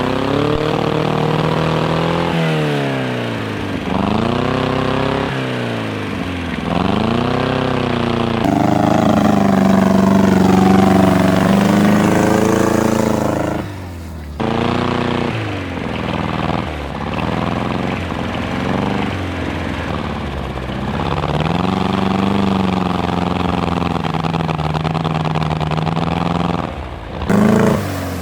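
Tractor engines revving, their pitch rising and falling again and again, with sudden changes from one engine to another.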